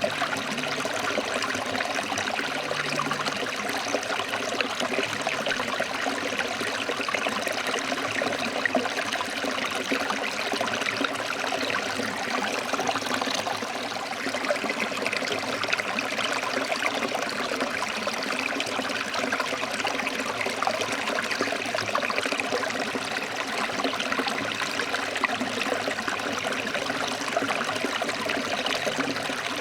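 A forest stream flowing and splashing over rocks, a steady rush of water without pause.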